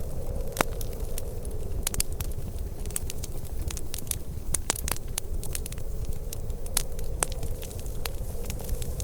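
Wood fire crackling, with sharp pops scattered irregularly, one of the sharpest about half a second in, over a steady low rumble.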